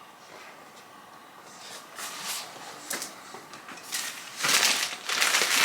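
Plastic packaging crinkling and rustling as it is handled, in short scattered bursts at first, then loud and continuous for the last second or so.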